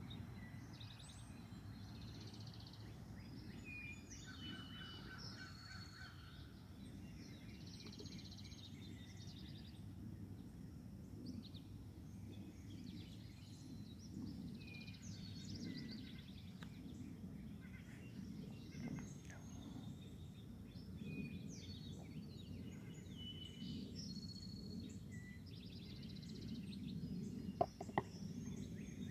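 Several songbirds singing and calling on and off, including a short rapid trill about four seconds in, over a steady low background rumble. Two sharp clicks near the end.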